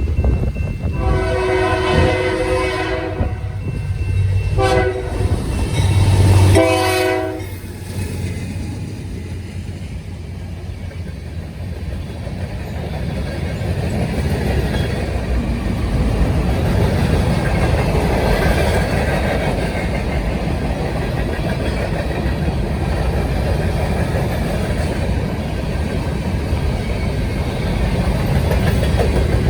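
A locomotive's multi-tone air horn sounds three times, long, short and long, as the train comes past. After that the steady rumble and clatter of the train rolling by on the rails carries on.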